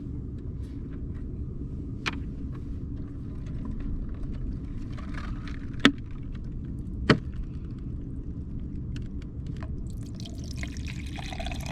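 Water pouring from a plastic jug that had frozen and been thawed, starting near the end, over a steady low rumble. Light handling clicks and two sharp knocks come about six and seven seconds in.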